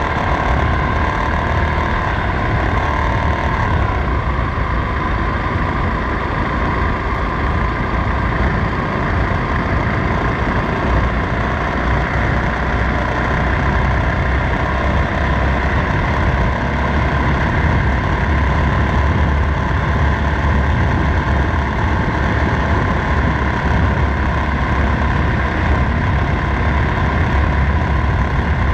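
Motorcycle engine running steadily while riding, with a constant low road and wind rumble.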